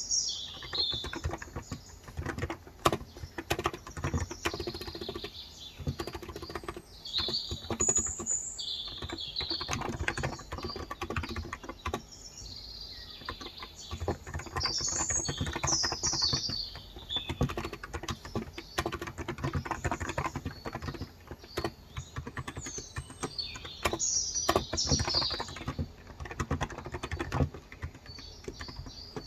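Steady, fast typing on a COX Endeavor electro-capacitive (Topre-style) 35g tenkeyless keyboard, a dense run of soft keystrokes, with small birds chirping in short bursts several times over it.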